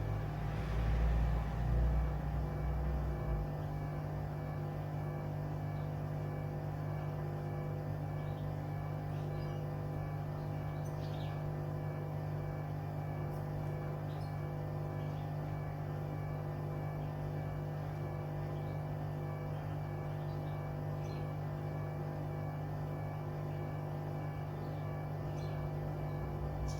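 Hoover washing machine running with its wood-laden drum turning at a steady speed: a constant motor hum, with heavy low thudding in the first three seconds or so.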